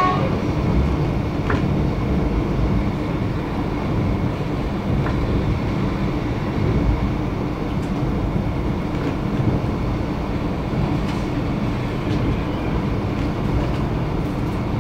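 Steady running noise of an X'Trapolis electric suburban train at speed, heard inside the front carriage: a low rumble of wheels on the track with a faint steady hum and an occasional faint click.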